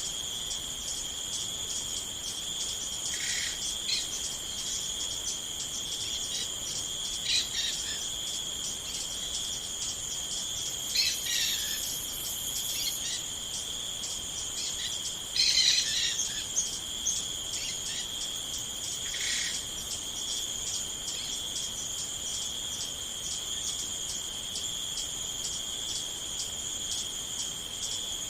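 Crickets chirping in a steady, fast-pulsing high chorus, with a few short bird calls breaking in now and then, about five times.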